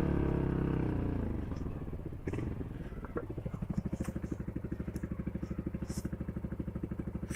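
Motorcycle engine dropping off as the bike slows, then idling with a steady, even beat, with a couple of faint clicks around two to three seconds in.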